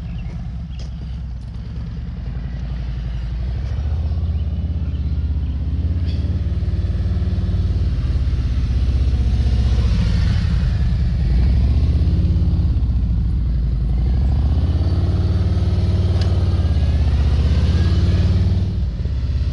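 Motorcycle engine running at low speed during slow-speed maneuvering. It gets louder a few seconds in, and its pitch rises and falls gently a couple of times with small throttle changes.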